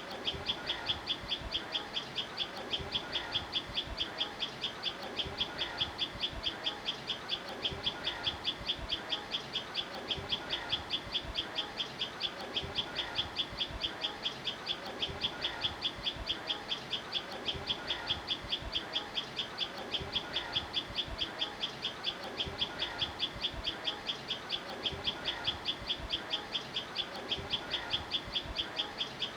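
Birdsong ambience: a high, even chirp repeated about four times a second, without a break, with softer calls of other birds beneath.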